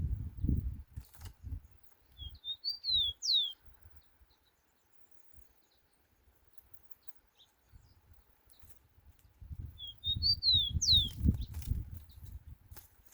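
Rufous-collared sparrow (tico-tico) singing a short phrase of clear whistled notes ending in a falling slur, twice, several seconds apart. Low thumping and rumbling noise comes and goes under the song.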